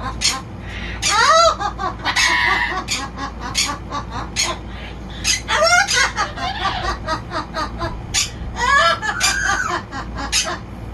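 Chickens clucking in a rapid, overlapping chatter, with three louder rising-and-falling squawks: about a second in, around the middle and near nine seconds.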